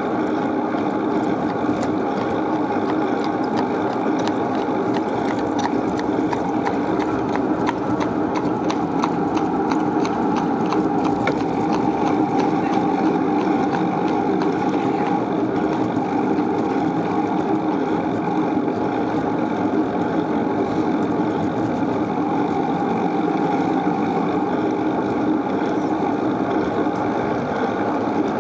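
Steady riding noise from a camera on a moving bicycle: wind and road rumble, with a run of faint clicks about a quarter of the way in.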